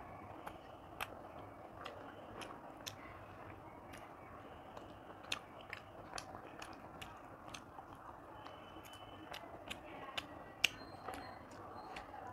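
Close-up eating sounds of a person chewing a mouthful of rice and curry, with soft, irregular mouth clicks and smacks about once or twice a second.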